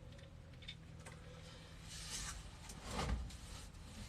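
Faint handling noises as a furnace part is worked into place and lined up: a soft scrape about two seconds in and a dull knock about three seconds in.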